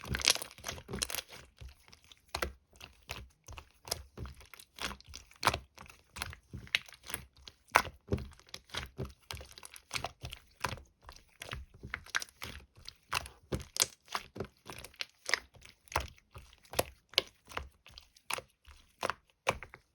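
Soft-serve-textured slime being squeezed and worked by hand, giving irregular crackly clicks and small pops, several a second.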